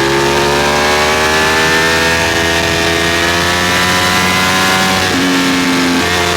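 Ducati Streetfighter V4 engine pulling under acceleration, its pitch rising for about five seconds, then dropping with an upshift and pulling on, over a steady rush of wind.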